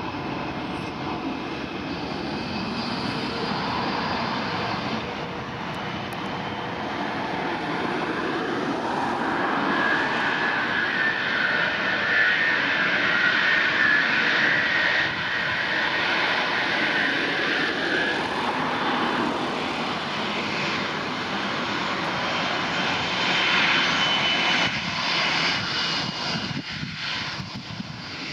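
Boeing 787-9 airliner's jet engines running, getting louder through the first half, with a high whine that is strongest around the middle.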